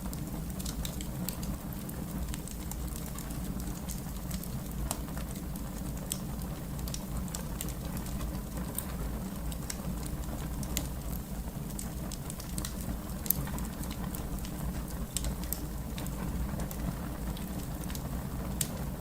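Fire crackling: irregular sharp pops and snaps over a steady low rumble, with one louder pop about 13 seconds in.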